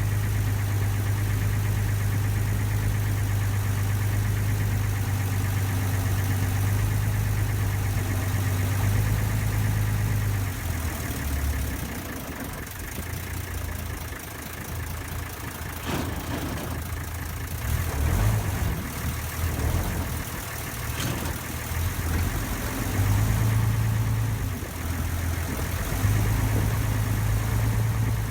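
A ferry boat's engine running with a strong steady low hum. About a third of the way in it drops lower and quieter, then rises and falls in strength for the rest, with a couple of short clicks in the middle.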